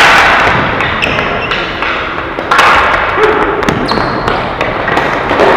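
Ball hockey game play: sticks clacking and the ball knocking on the floor and boards in quick irregular hits, over a steady din of players and spectators.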